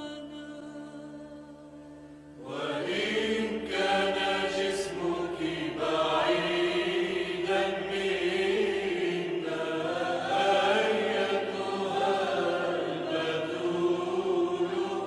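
A slow hymn with a choir singing long, held, chant-like lines. A fading held chord gives way to a louder, fuller choral entry about two seconds in.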